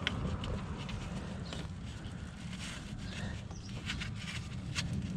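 Irregular light metal clicks and taps of a socket and extension being worked down a deep spark plug well, feeling for the plug, over a low steady rumble.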